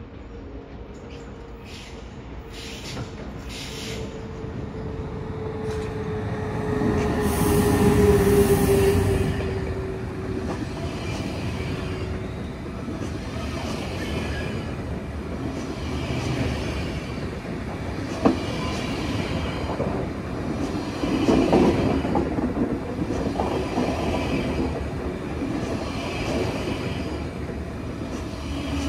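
Passenger train running through a station, with a steady whine that falls slightly in pitch and grows to its loudest about eight seconds in. After that comes a continuous rumble with a regular beat of wheel clatter.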